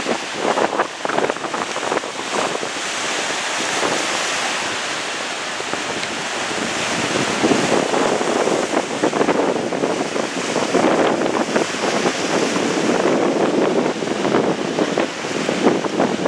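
Strong wind with rain, gusting and buffeting the microphone: a loud rushing noise that swells and eases every few seconds.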